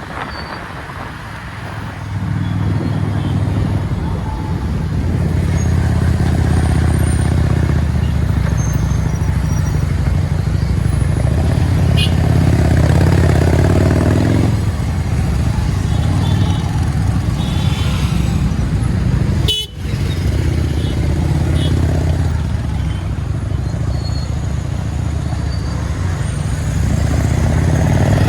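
Motorcycle engine running steadily under way in road traffic, with vehicle horns honking now and then. The sound drops out for an instant about two-thirds of the way through.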